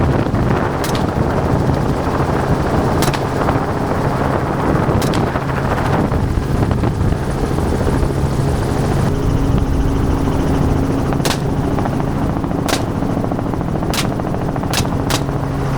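Helicopter running steadily in flight, a continuous rotor and engine drone with a low hum. Several short sharp clicks are scattered through it.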